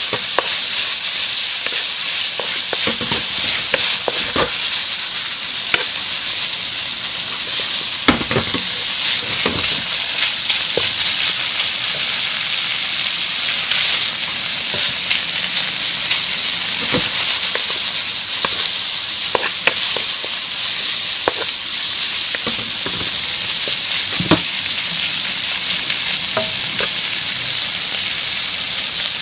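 Beef strips sizzling steadily in butter and sauce in a metal pan over high heat. Now and then there is a short knock or scrape as a wooden spork stirs the meat against the pan.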